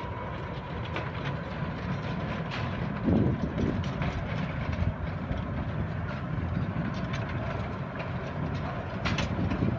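Small tourist train rolling on its track: a steady low rumble with scattered light clicks from the wheels.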